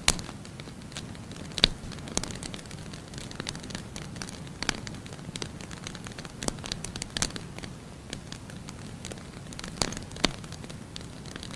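Firewood burning in a fireplace: a steady low hiss of the flames with irregular sharp crackles and pops of the burning logs, a few of them louder than the rest.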